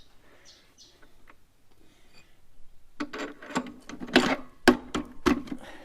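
Metal knocks and clatter of a motorcycle front axle being pushed and tapped through the fork legs and wheel hub: a quick, irregular run of sharp knocks starting about three seconds in.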